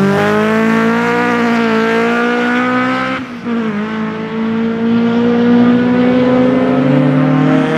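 Mark II Ford Escort race car with a 2-litre Honda engine accelerating away, engine pitch climbing steadily. The pitch drops at a gear change about three seconds in, then climbs again.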